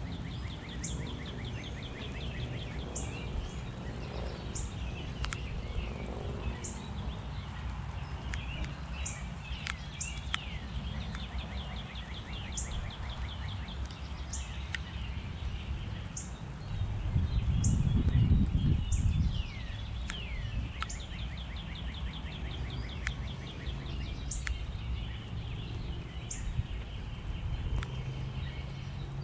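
Backyard songbirds calling: sharp high chip notes repeated every second or two, with several rapid trills and short down-slurred notes. A steady low rumble runs underneath and swells for a couple of seconds a little past the middle.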